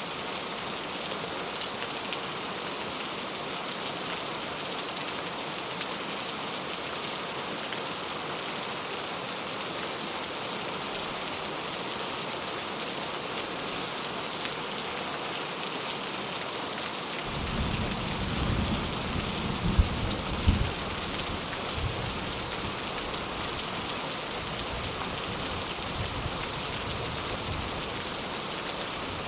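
Steady rain falling, a constant hiss of drops. A bit past halfway a low rumble of thunder sets in, with two sharp louder cracks within it, then dies away near the end.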